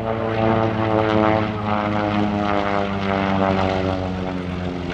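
Radial-engined propeller warbird flying past, its engine drone sinking slowly in pitch as it goes by.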